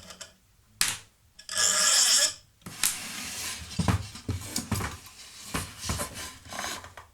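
Metal tools and parts handled on a workbench: a click, a scraping rasp of about a second, then a run of irregular clinks and knocks.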